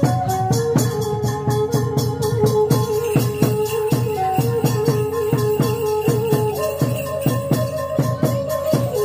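Khmer chhay-yam dance music: a held melody line with a few pitch steps over even, rapid percussion strikes, about four a second.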